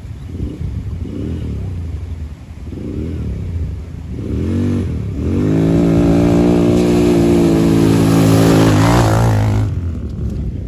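ATV engine revving in short blips, then accelerating hard about five seconds in and holding high revs for about four seconds before easing off near the end.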